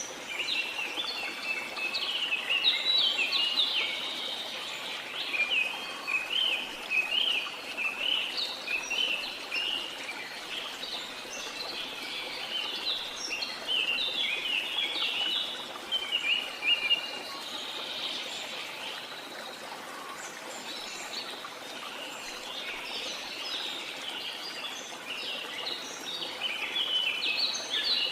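Many birds chirping in rapid short notes over a steady rush of falling water. The calls thin out for a while after the middle and pick up again near the end.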